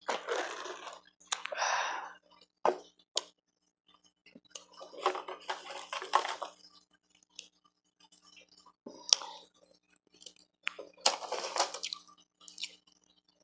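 Close-miked crunching of refrozen powdery ice being bitten and chewed, in four bursts with sharp clicks and crackles between them.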